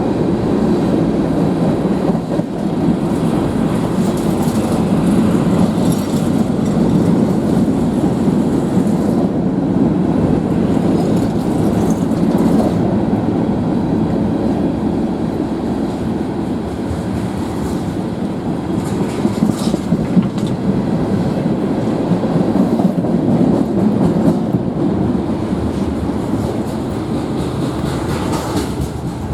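Freight train cars of a CN manifest train rolling past steadily, with steel wheels running and clattering on the rails.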